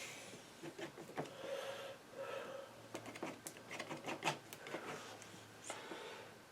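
Painting knife working paint on the painting surface: irregular short scraping strokes and light taps of the blade.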